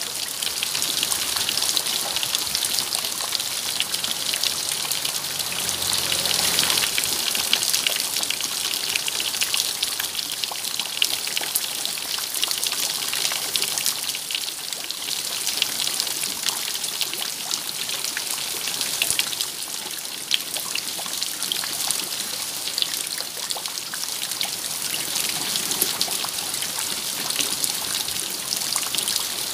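Steady rain, with many individual drops ticking close by over a continuous hiss and some water trickling.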